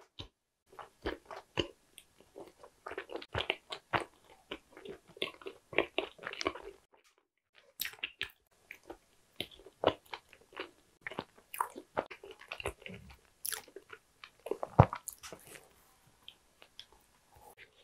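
Close-miked chewing of a chocolate brownie tart with a crumbly pastry crust: many small crunches and clicks, broken by a brief silent gap about seven seconds in. A louder bite into the tart comes near the end.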